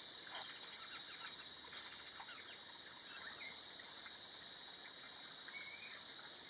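Forest ambience: a steady high-pitched insect drone under scattered short bird chirps and a few brief whistled bird notes, the clearest about halfway through and again near the end.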